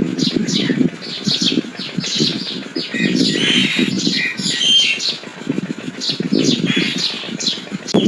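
Nias hill myna calling: a quick, steady run of short high chirps and whistles, over a continuous lower burbling sound.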